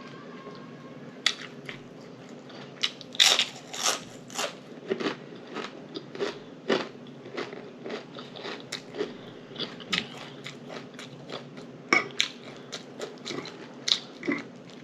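A person chewing and crunching a mouthful of chicken taco salad close to the microphone, with irregular crisp crunches and wet mouth clicks several times a second.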